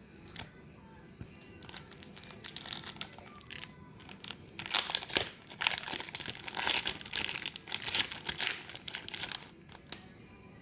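Crinkling and tearing of trading-card packaging being opened by hand, in irregular crackly bursts that start about two seconds in, are loudest in the second half and stop shortly before the end.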